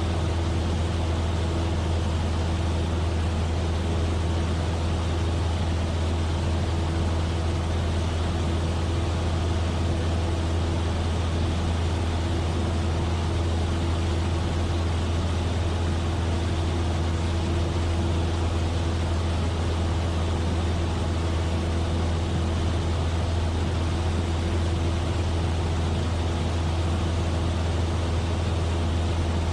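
Cessna 172F's engine and two-blade propeller in steady cruise, heard inside the cabin: a loud, unchanging low drone with a steady hum and an even rush of wind noise over it.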